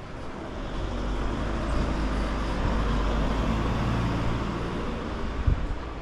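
A motor vehicle passing close by: engine and road noise swell over the first couple of seconds, then slowly ease off. A short low thump comes near the end.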